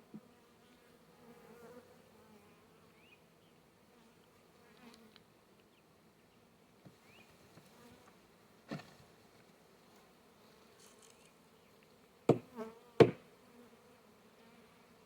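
Honey bee swarm buzzing steadily, a low hum, with a sharp knock about nine seconds in and three loud knocks in quick succession near the end.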